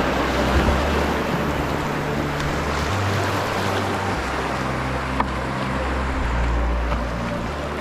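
River water rushing through a shallow whitewater rapid: a steady, even rush.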